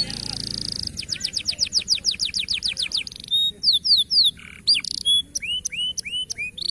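Canary singing: a buzzy held note, then a fast trill of about ten quick downward-sweeping notes a second, then a string of varied whistles and upward-curving chips.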